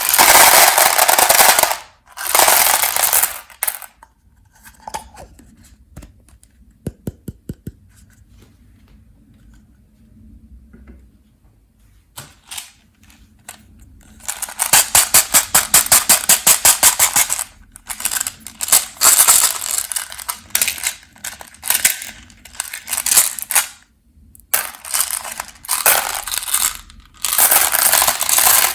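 Peanut M&M's crunching and clattering in loud bursts, including a quick run of repeated crunches, with a quieter stretch of scattered light clicks of the hard candy shells in between.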